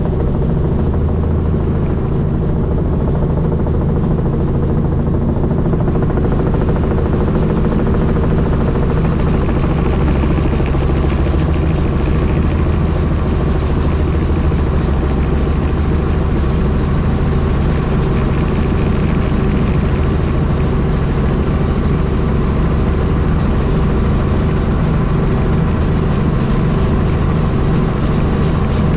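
Helicopter in flight: the steady, unbroken drone of rotor and engine, heaviest in the low end.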